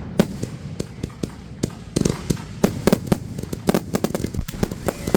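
Fireworks going off: a rapid, irregular run of sharp cracks and pops, several a second, getting denser in the second half.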